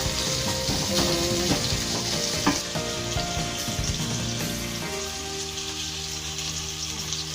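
Onions sizzling as they fry in hot oil in a pan, a steady hiss, with a few light knocks in the first half.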